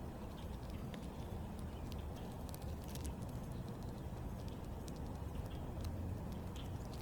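Outdoor backyard ambience: a steady low rumble with scattered short clicks and a few brief, faint small-bird chirps.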